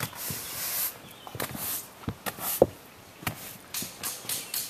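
Irregular footsteps and knocks, mixed with short scraping or rustling noises.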